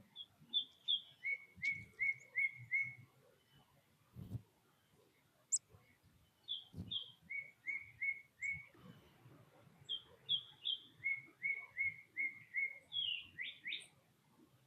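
A songbird singing three phrases, each two or three higher notes followed by a run of four or five evenly repeated lower notes. Two low thumps fall between the phrases.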